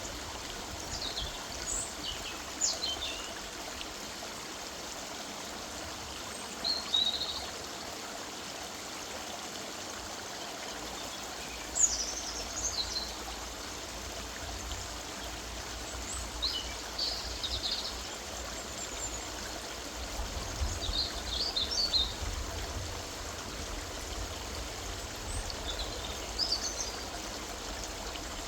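A woodland river running steadily, with a songbird singing short high phrases every few seconds.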